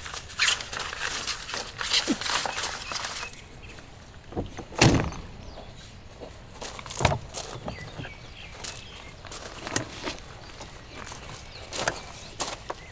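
Handling noises: rustling and scattered clicks, with two dull thuds, the louder one about five seconds in and another about two seconds later.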